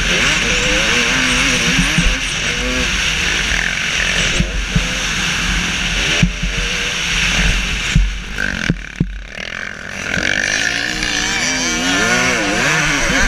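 KTM SX300 two-stroke motocross bike's engine revving up and down under throttle, with wind rush and sharp knocks from the rough track. About eight seconds in the engine drops off briefly with a few knocks, then picks up and revs again.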